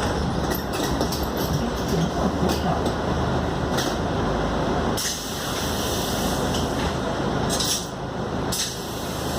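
Scania K280UD double-decker bus heard from inside the cabin while on the move: a steady engine drone under road and rolling noise.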